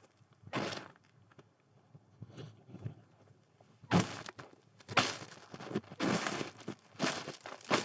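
Footsteps in snow: one step, a pause of about three seconds with only faint scuffing, then steady walking at about one step a second.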